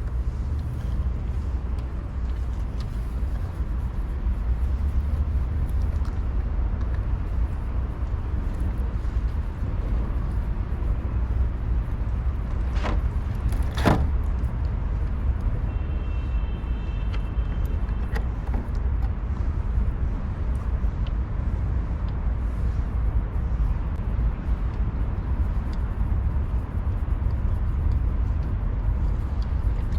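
Steady low rumble of a running vehicle engine, with two sharp clicks about halfway through.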